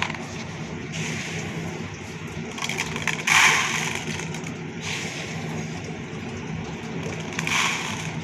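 Small electric motor and gearbox of a homemade RC toy tractor running with a steady hum, broken by several short crunching, rustling bursts, the loudest about three seconds in.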